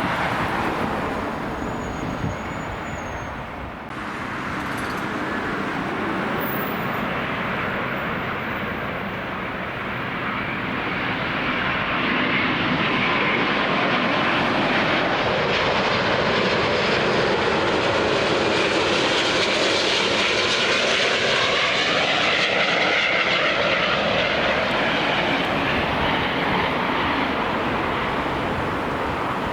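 Jet airliner passing close by, its engine roar swelling from about twelve seconds in and staying loud, with sweeping shifts in tone as it goes past.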